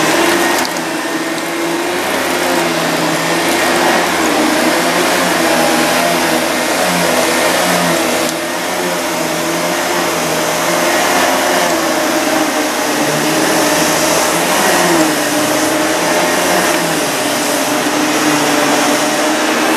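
Panasonic MC-CG885 vacuum cleaner running steadily while vacuuming dog hair, its motor hum wavering slightly in pitch.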